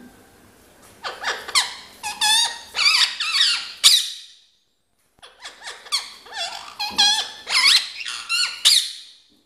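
Ringneck parrot vocalizing in two bouts of high, squeaky chatter, each about three seconds long, separated by a short pause.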